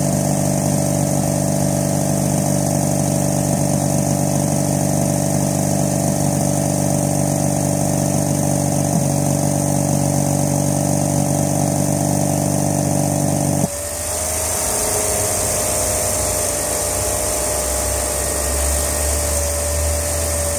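Mazda RX-8's Renesis rotary engine running loud on a cold start: a steady drone of several tones cuts off suddenly about two-thirds of the way in, leaving a quieter idle with a thin steady whine. The owner takes this loud cold-start noise for what is throwing his P0410 check engine code, a secondary air injection system fault.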